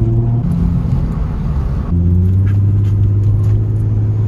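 Nissan 350Z's V6 engine and road noise heard from inside the cabin while driving, a steady low drone. The sound jumps abruptly about two seconds in and then runs stronger and steadier.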